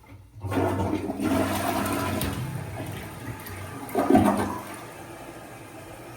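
A toilet flushing: a sudden loud rush of water about half a second in, a second surge around four seconds in, then a quieter steady hiss of water.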